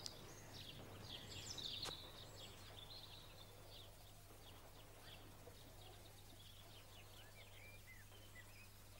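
Faint birdsong: many short chirps and tweets over a low steady hum, with a single sharp click about two seconds in.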